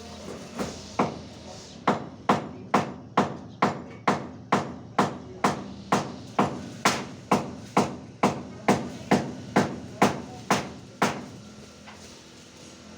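Steady hammering: about two sharp hammer blows a second, some twenty in all, stopping about two seconds before the end.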